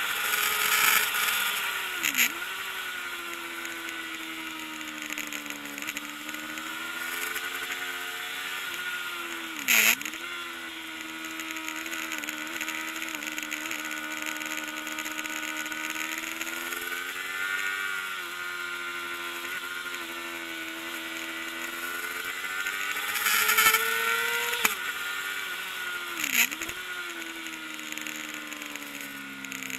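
Kawasaki ZXR400 inline-four engine running at high revs under racing, its high-pitched note rising and falling through the laps. The pitch dips sharply and briefly a few times, about 2, 10, 25 and 26 seconds in.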